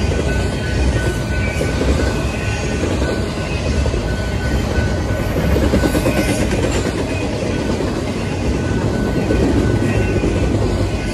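BNSF double-stack intermodal train passing close by, the wheels and container cars making a loud, steady rolling rattle on the rails.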